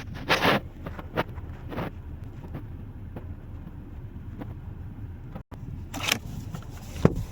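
Steady low hum inside a 2025 Mazda CX-5's cabin, with several short clicks and rustles as interior fittings are handled.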